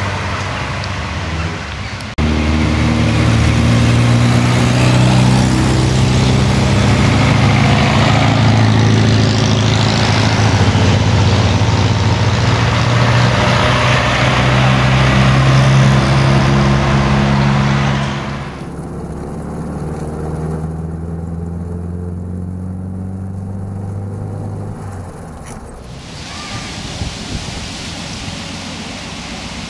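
Vintage Singer sports car engines running as the cars drive past one after another. The engine note is loud and steady from a couple of seconds in until about two-thirds through, then drops to a quieter engine sound, with abrupt changes between the clips.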